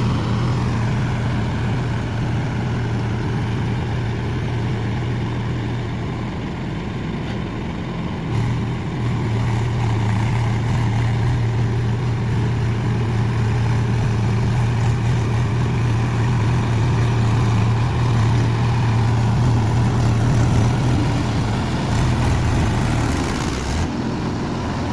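Tractor engine running steadily while puddling a muddy paddy field, with a low, even hum that eases slightly and then picks up again about a third of the way in.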